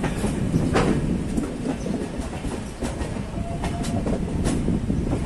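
Rani Chennamma Express passenger coaches running along the line: a steady rumble of wheels on rail with irregular clicks and clacks as the wheels cross rail joints.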